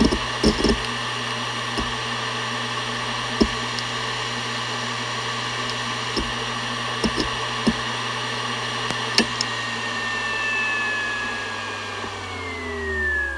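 Seagate Barracuda ES.2 ST31000340NS 7200 rpm hard drive spinning with a steady hum and whine, its heads seeking in single sharp clicks every second or few. Near the end the whine falls steadily in pitch as the platters spin down.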